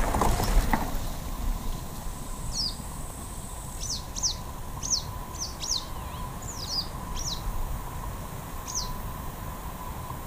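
Small birds chirping, a run of about a dozen short, quick downward-sliding chirps. At the start a bicycle passes close by with a brief rush of tyre and wind noise.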